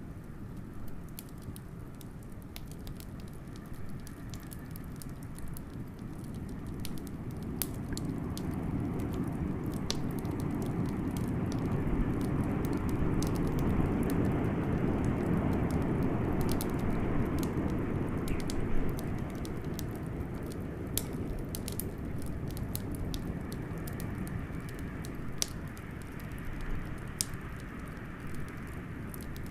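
Wood fire crackling with scattered sharp pops, over blizzard wind that swells to a peak about halfway through and then eases.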